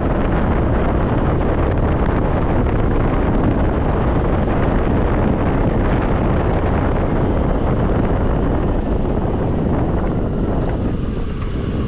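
Wind rushing over the microphone of a moving scooter, with the scooter's engine running underneath; the noise eases slightly near the end.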